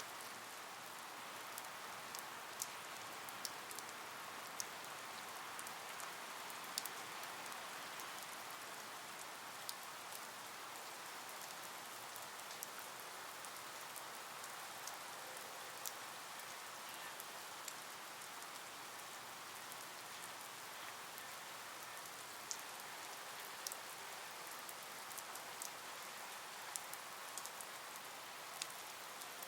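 Steady rain falling, with irregular sharp drip and drop clicks scattered through it.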